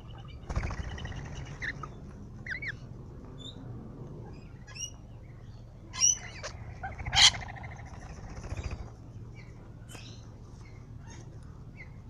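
Wild birds calling: scattered short chirps and whistled, sliding notes, with two longer harsh, rattling calls, one near the start and a louder one about seven seconds in.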